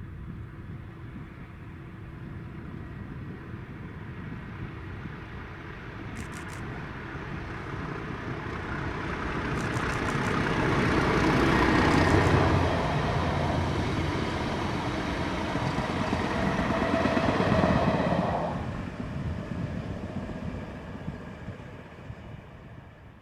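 A train passing on the main line. The rumble builds slowly, peaks about halfway through with a second peak a few seconds later, then fades away.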